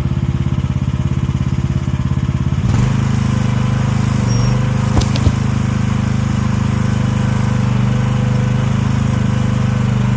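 15-horsepower gasoline engine of an AGT 1-ton mini excavator running steadily. Its note changes and grows fuller about a quarter of the way in. Two sharp knocks come close together about halfway through.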